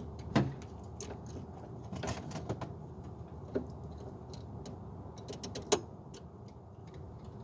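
Scattered clicks and knocks of hand work on a car's underside, with two sharper knocks about half a second in and near the end, over a steady low hum.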